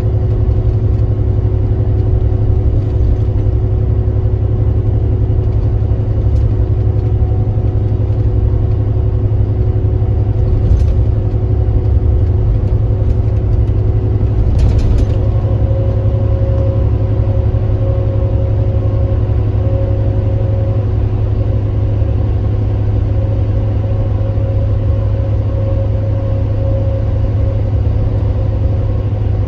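Kia Granbird Sunshine coach's engine running steadily under way, a heavy low drone with a faint steady whine over it. About halfway through, a second, higher tone starts pulsing on and off.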